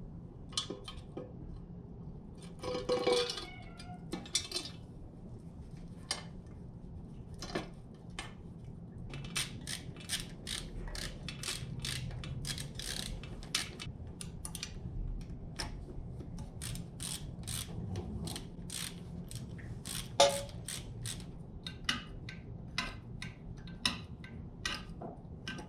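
Hand ratchet clicking in runs of quick strokes, with a few metal clinks, as exhaust header fasteners are run onto an engine.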